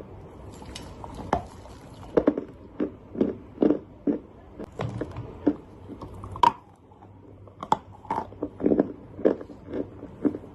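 A person biting and chewing hard, crunchy clay close to the microphone: a run of irregular sharp crunches.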